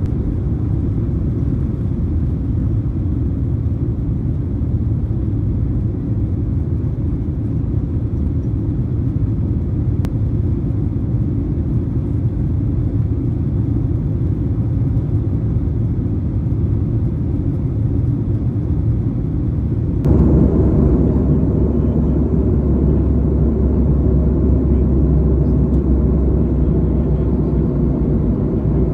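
Airliner cabin noise: a steady low rumble. About 20 seconds in it switches abruptly to a louder, deeper rumble with a steady low hum.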